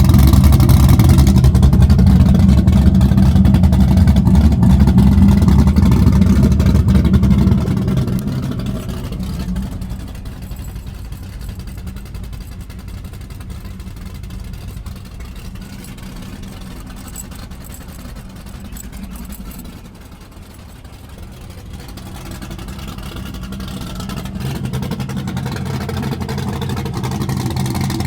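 Car engine running loud for about eight seconds, then fading away to a much lower level and growing louder again near the end.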